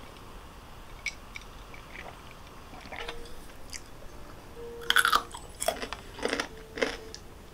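Someone biting and chewing crunchy food: a few light crunches early on, then a cluster of louder crisp crunches about five to seven seconds in.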